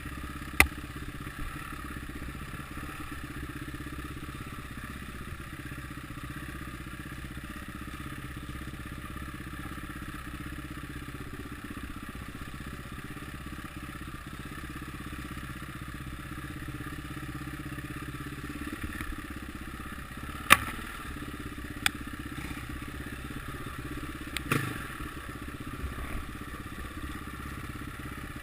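Motocross motorcycle engines running steadily in the distance, with a few sharp knocks standing out above the drone.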